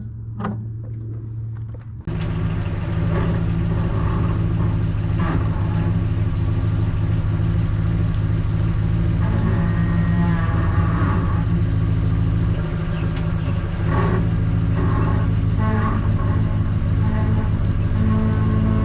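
A motor vehicle's engine running steadily at a constant pitch, with occasional brief rattles. It cuts in abruptly about two seconds in.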